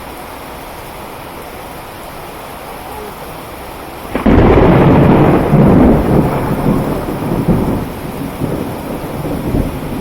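Steady heavy rain, then about four seconds in a sudden loud clap of thunder that rumbles on and slowly fades over the rain.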